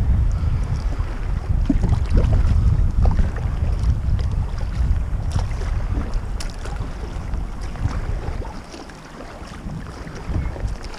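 Wind buffeting the microphone in a low, gusting rumble, with small splashes and crackles of water around a sea kayak. The buffeting eases about eight seconds in, then picks up again near the end.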